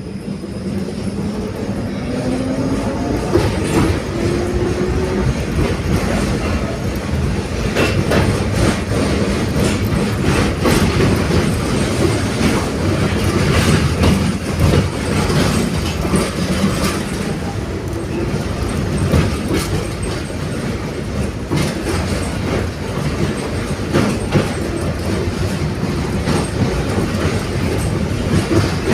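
A 71-631 tram pulls away, its traction motor whine rising in pitch over the first few seconds. It then runs along the track with a steady rumble and irregular clicks of the wheels over rail joints.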